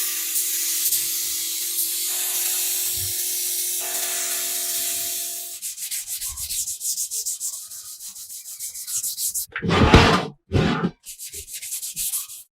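Sanding on a workshop part. First a steady high hiss with a motor hum, then quick, even rubbing strokes, and two louder rushing bursts about ten seconds in.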